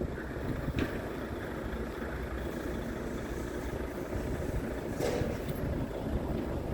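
Scania P-series truck's diesel engine idling with a steady low rumble, with two brief clicks, about a second in and about five seconds in.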